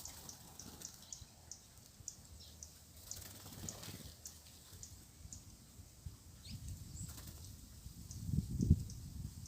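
Red-cowled cardinals giving short, sharp, high chip calls, two or three a second at first, then more sparsely. A low rumble comes near the end and is the loudest thing heard.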